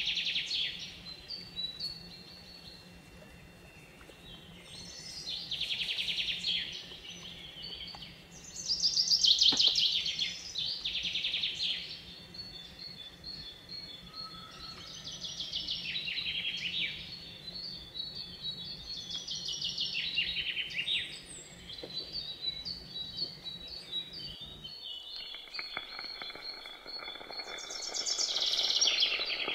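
Songbirds singing: trilled, chirping phrases every two or three seconds over a low, steady hum. Near the end, after the hum stops, food sizzles on a hot sizzler plate.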